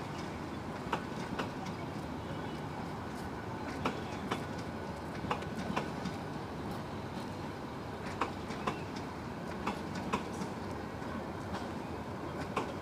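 Intercity passenger train coaches rolling slowly past with a steady rumble. Pairs of wheel clacks come every second or few as the bogies cross rail joints.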